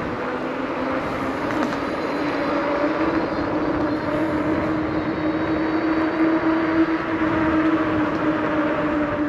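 Steady wind and tyre noise from a bicycle on the move, with a steady droning hum that climbs slightly in pitch.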